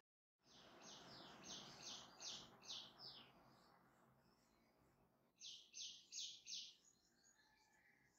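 Faint birds chirping in two quick runs of high chirps, the first lasting about three seconds and the second a little over a second near the middle, with a soft rustling noise under the first run.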